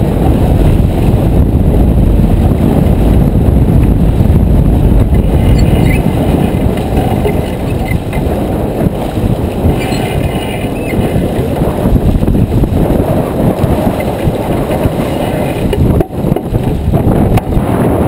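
Wind buffeting the microphone aboard a J24 sailboat under way: a loud, steady low rumble that dips briefly about sixteen seconds in.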